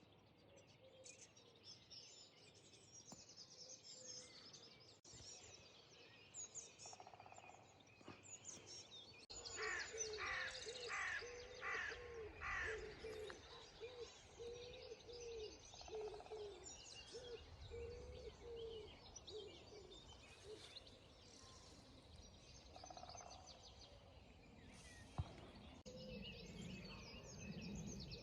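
Faint birdsong: small birds chirping throughout, with a run of evenly repeated lower calls lasting several seconds about a third of the way in.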